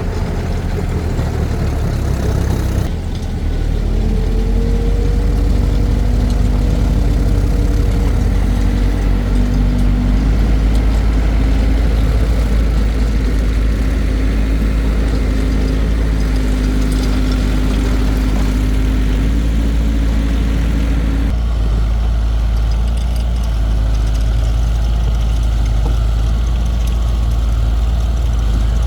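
Heavy engine running steadily with a deep, low drone. A few seconds in its pitch rises and holds, then it settles back down about two-thirds of the way through.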